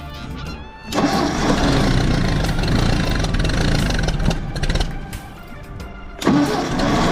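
Cold tractor engine being started: it comes in loudly about a second in and runs hard for about four seconds, drops away, then comes in loudly again near the end.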